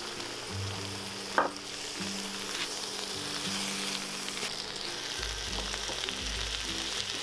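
Sliced beef and chopped red onion sizzling in a hot wok as they are stirred with a spatula, with one sharp knock about a second and a half in.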